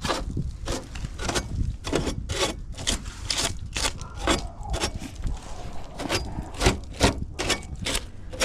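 Rapid, irregular rubbing and scraping strokes, about three a second.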